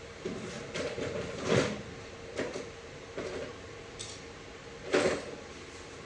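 Irregular metallic knocks and scrapes of a transmission and tools being handled in a workshop, with two louder clunks about one and a half and five seconds in.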